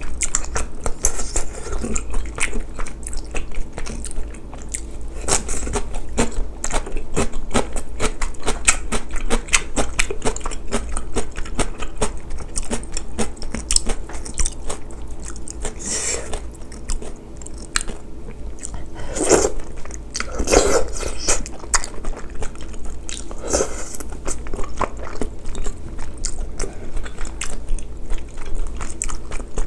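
Close-miked eating: steady chewing with many small wet clicks and smacks, as spicy braised chicken and glass noodles are bitten and chewed. A few longer, louder eating sounds come in the second half.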